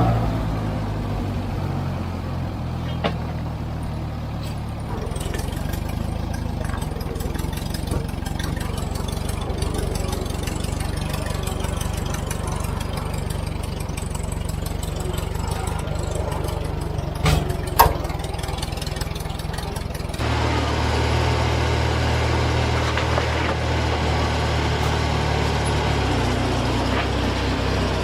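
David Brown 30 tractor engine running steadily, with two sharp knocks around the middle. About twenty seconds in the engine gets louder.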